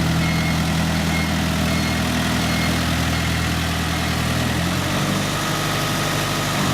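Isuzu 4BD2TC four-cylinder turbodiesel idling steadily, its note shifting slightly about two-thirds of the way through.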